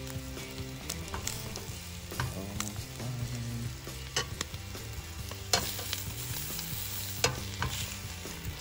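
Spam slices and egg sizzling in hot oil in a nonstick wok, with plastic-headed tongs clicking and scraping against the pan as the pieces are turned. The two sharpest clacks come about five and a half and seven seconds in.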